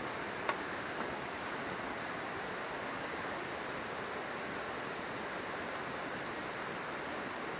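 A river flowing steadily, with a campfire giving two small crackling pops about half a second and a second in.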